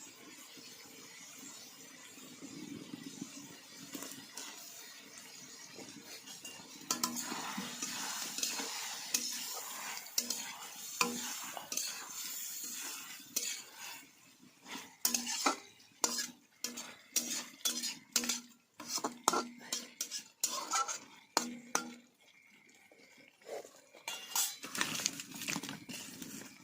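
A metal spoon stirring chicken in a cooking pan over a light sizzle. From about halfway through, quick clinks and scrapes of the spoon against the pan come several times a second, with a brief pause near the end.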